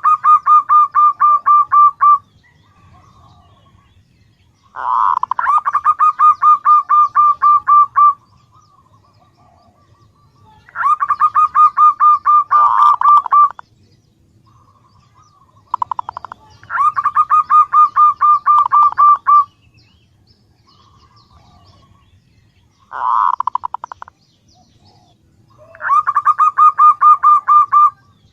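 Zebra dove (perkutut) calling: fast runs of staccato cooing notes, each run two to three seconds long, repeated about six times with short pauses between. The uploader presents it as a female's call to lure males.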